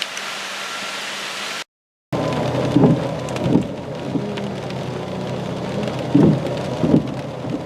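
Heavy rain with wind noise. After a brief cut to silence, the rain goes on over a steady low hum, broken by several sudden low bursts of gust or thunder.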